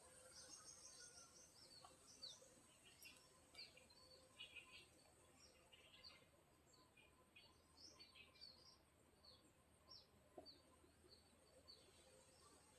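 Faint birdsong: small birds chirping and calling in many short high notes and quick downslurs throughout.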